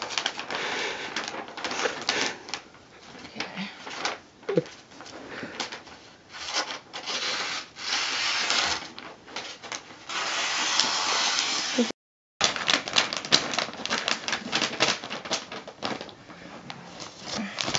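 Christmas wrapping paper rustling and crinkling as it is handled and folded, in irregular crackles and longer stretches of rustling.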